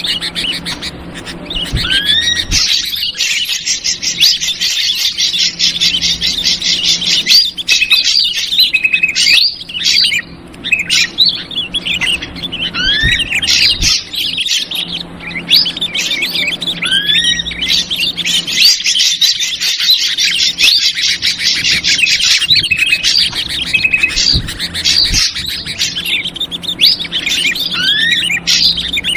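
Bird-lure recording of ashy drongo calls mixed with noisy, agitated bulbul (trucukan) chatter: dense high chattering broken by rising whistled notes. The same sequence repeats about every fifteen seconds, over a steady low hum.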